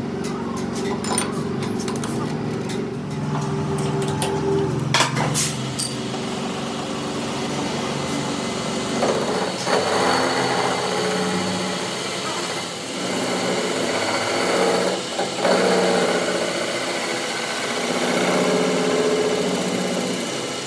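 A workshop machine or power tool running steadily, with a few sharp clicks in the first few seconds; its sound changes about nine seconds in.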